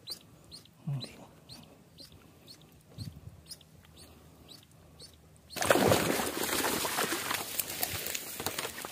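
Faint, short, high chirps repeating about twice a second, like a small bird calling. About five and a half seconds in, a loud, rough thrashing and rustling noise starts and runs on.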